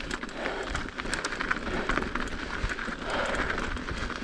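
Mountain bike rolling over an icy, frozen trail: steady tyre noise with frequent sharp clicks and rattles from the bike on the rough ice.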